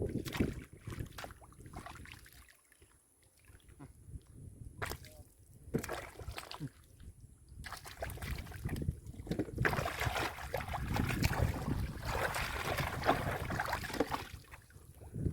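Hands sloshing and splashing through shallow muddy water while hunting fish by hand. The splashes come irregularly, sparse for a few seconds and then busy in the second half.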